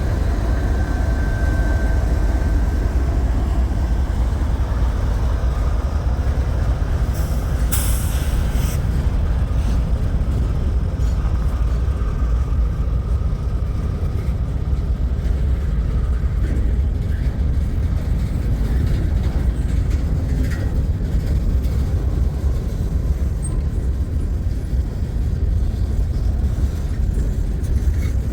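Long freight train rolling past with a steady low rumble of wheels on rail, with faint high squealing tones now and then and a brief hiss about eight seconds in.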